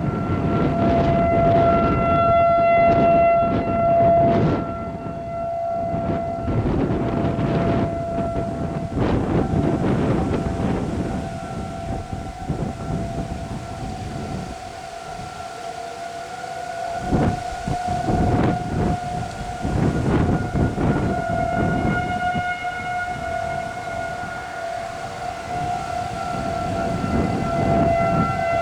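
Outdoor tornado warning siren sounding a long, steady tone that wavers slightly in pitch, signalling a tornado warning. Gusts of wind buffet the microphone over it.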